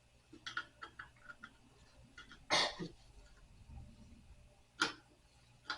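Light clicks and knocks of a screwdriver and screws being worked on a wooden nightstand, with a louder short rasping burst about two and a half seconds in and two sharp clicks near the end.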